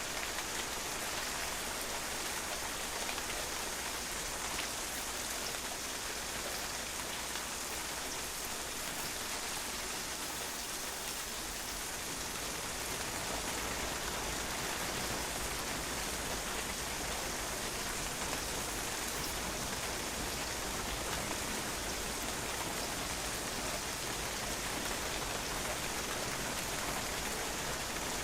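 Steady rain falling on a patio, the drops pattering and splashing on the hard surface in an even hiss.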